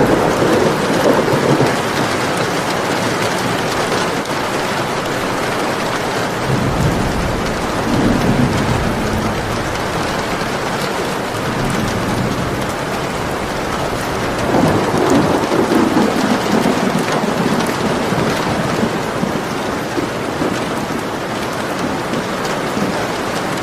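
Steady heavy rain falling, with rolls of thunder rumbling three times: at the start, about a third of the way in and again just past the middle.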